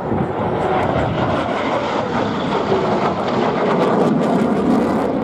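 Single-engine jet noise from a USAF F-16 Fighting Falcon flying its display: a loud, steady rushing roar.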